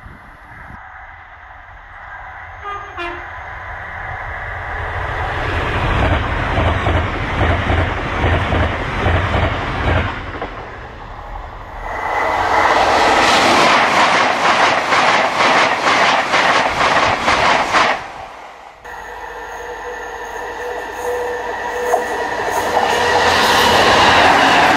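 Trains passing at speed on an electrified main line, in separate clips. First one approaches and goes by with a rushing build. Then a second passes with a fast, regular clatter of wheels over the rail joints that cuts off suddenly, and near the end a Class 66 diesel freight locomotive grows louder as it comes by.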